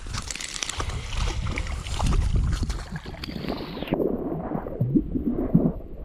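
Wind rumbling on the microphone, then water splashing and gurgling at the surface from the hooked trout being played in; the hiss drops away suddenly about four seconds in.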